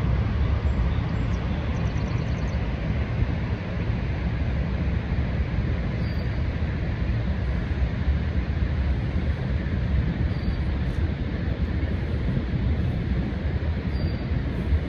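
Niagara Falls: a steady, deep rush of falling water, heaviest in the low rumble.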